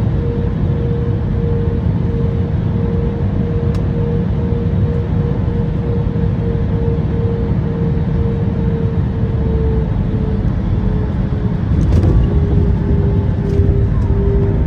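Steady low rumble inside a moving vehicle, with a pulsing hum that drops slightly in pitch about ten seconds in and a couple of faint clicks near the end.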